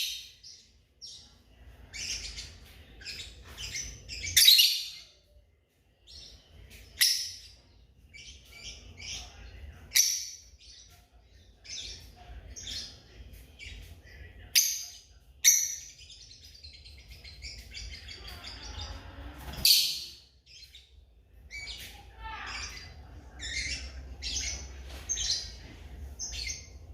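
Lovebirds chirping: short, sharp, high calls repeated irregularly, with a stretch of continuous chatter a little past the middle.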